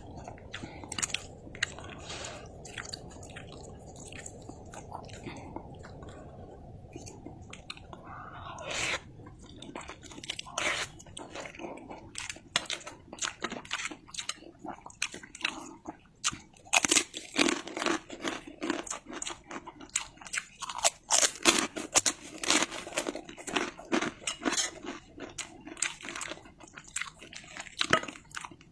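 Close-miked chewing and wet mouth smacks while eating fried instant noodles with egg and chilies. A low steady rumble sits under the first eight seconds or so. After that the smacks and clicks come thick and fast.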